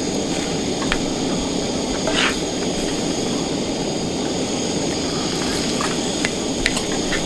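Food cooking in a pan, a steady sizzling hiss, with a few light clicks of a utensil against the pan.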